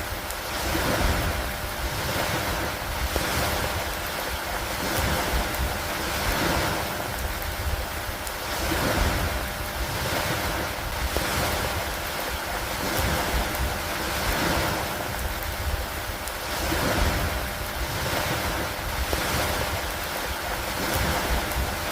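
Steady rain with wind and lapping lake water: a continuous rushing noise that swells and eases about every two seconds.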